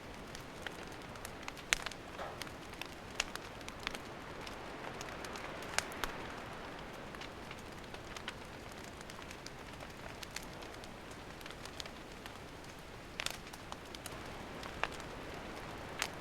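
Wood campfire burning: a steady soft hiss with irregular sharp crackles and pops, a handful of them louder than the rest.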